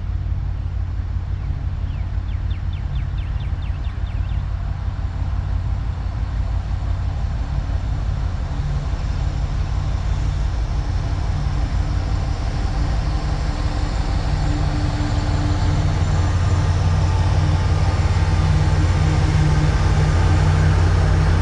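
Diesel locomotives of an oncoming freight train, a low steady engine rumble that slowly grows louder as the train approaches.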